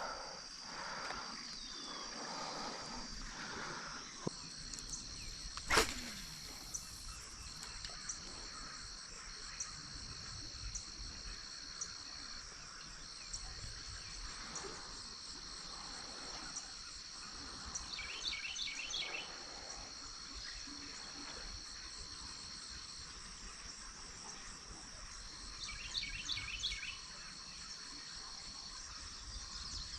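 Steady high-pitched insect trilling, like crickets, with short breaks in the tone. Twice a quick run of rapid chirping notes sounds over it, and there is one sharp click about six seconds in.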